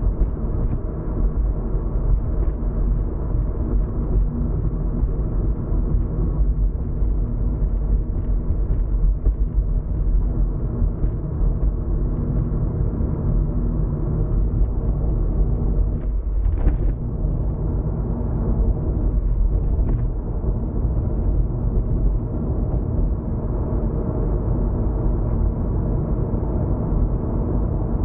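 Steady low rumble of a car's engine and tyres on the road, heard from inside the moving car, with a brief hiss about sixteen seconds in.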